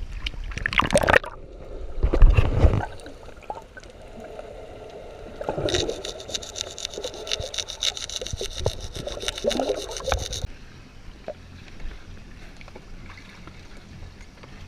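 Water splashing twice, then about five seconds of rapid, even scraping.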